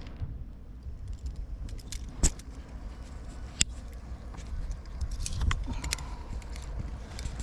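Metal cookware clinking and rattling as it is handled, with two sharp clinks, about two seconds in and again about three and a half seconds in, and lighter clicks between them.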